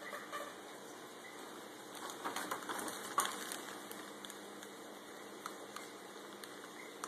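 Faint steady hiss with a low hum, and a cluster of small clicks and taps about two to three and a half seconds in, the sharpest just after three seconds.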